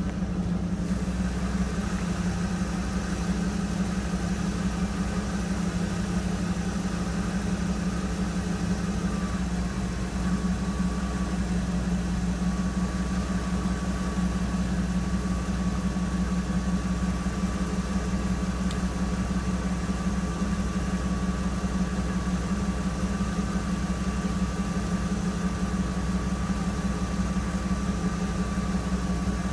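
Engines idling steadily: a 1991 Volkswagen Jetta turbo diesel running just after a cold start, with a Ford 460 big-block V8 truck running alongside it.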